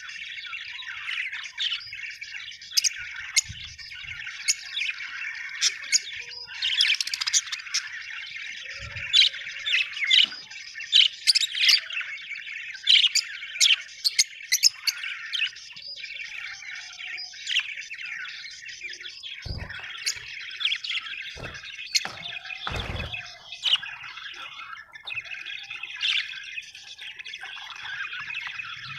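A flock of budgerigars chattering, warbling and chirping continuously, with frequent sharp chirps over the warble. A few dull low knocks come about two-thirds of the way through.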